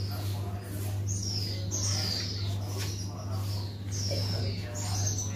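Small birds chirping: short, high chirps that fall in pitch, repeated irregularly about every half second to second, over a steady low hum.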